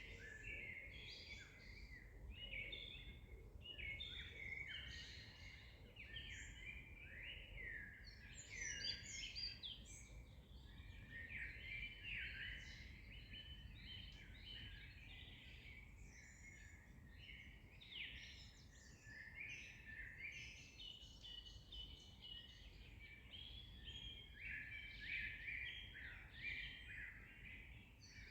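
Songbirds singing, many short chirps and trills overlapping without a break, over a faint low rumble.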